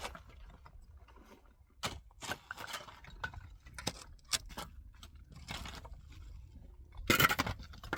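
Scattered knocks and scrapes, with a louder burst of rough noise about seven seconds in.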